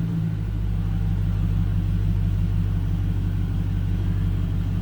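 A 5.7-litre Hemi V8 idling steadily, a low, even rumble.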